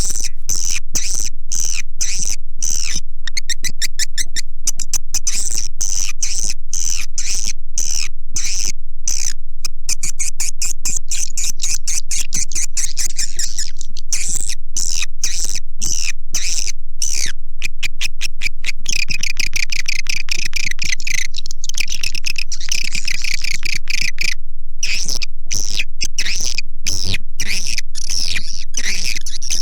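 Recorded swiftlet calls of the kind played to lure swiftlets into a nesting house: a dense, rapid chatter of clicks with high twittering over it, the twittering thickest for several seconds past the middle.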